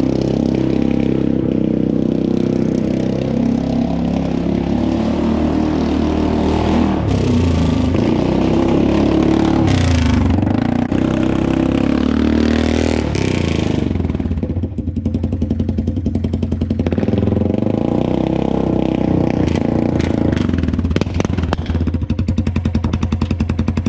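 Polaris Sportsman 570 ATV's single-cylinder four-stroke engine running straight-piped with the muffler removed, loud and raw. The revs rise and fall a few times through the middle, then it settles back to an idle with a distinct pulse from each firing.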